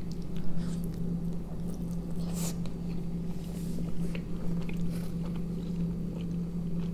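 Close-up chewing of a soft tortilla-wrapped snack with sausage and tomato filling, mouth closed, with scattered small wet mouth clicks. A steady low hum runs underneath.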